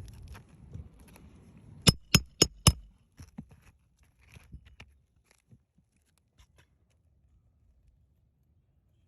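Four quick, sharp hammer blows on a roofing nail, about four a second, with light clicks and handling of tools and shingle before and after.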